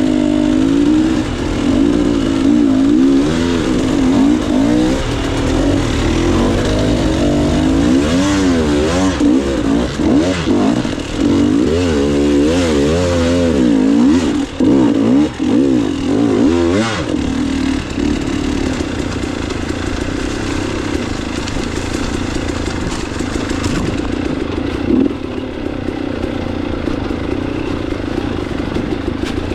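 Dirt bike engine being ridden on a trail, its revs rising and falling rapidly with the throttle through the first half, then running at a steadier pitch.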